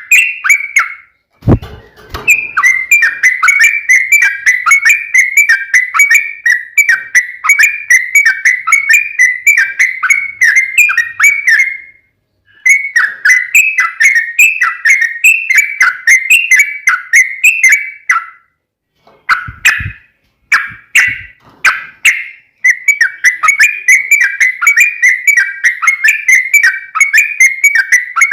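Yellow-vented bulbul (trucukan) singing a long, fast run of chattering notes, the rapid 'ropel' song used as a lure to make a kept bulbul answer. The song breaks off twice, with a few separate calls in the second gap, and there is a short low thump shortly after the start.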